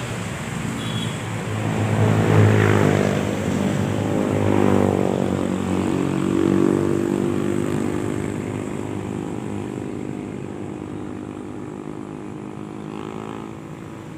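A motor engine hums, its pitch rising and falling several times, loudest in the first half and fading away toward the end.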